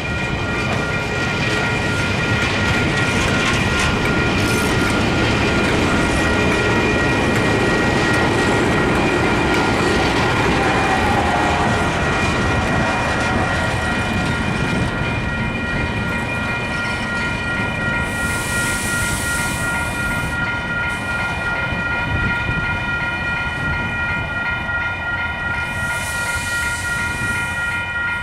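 KiwiRail DX diesel-electric locomotives running as they move a train of wagons, a steady engine rumble with a constant high whine on top. Two short bursts of hiss come about two-thirds of the way through and again near the end.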